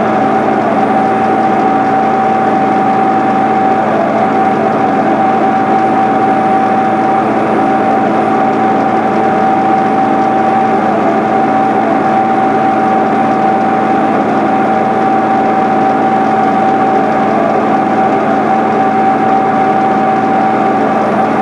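John Deere 8970 tractor's six-cylinder Cummins diesel running steadily under load, with a constant whine over the engine.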